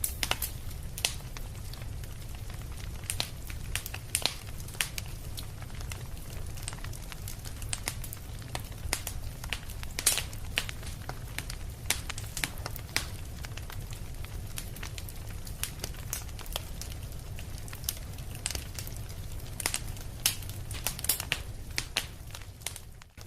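Wood fire crackling: irregular sharp pops and snaps over a steady low rumble of burning, dipping briefly near the end.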